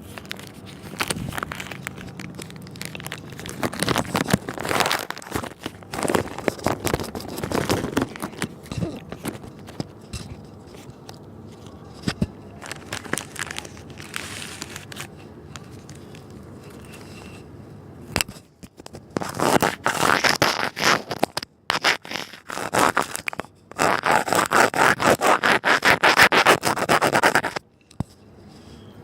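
Close-miked crunching and crackling from eating Oreo cookies, coming in spells with short pauses; the loudest and most rapid run of crackles comes in the last third.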